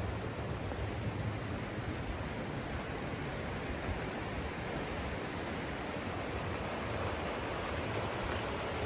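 The River Teign's water rushing steadily: an even, unbroken wash of noise.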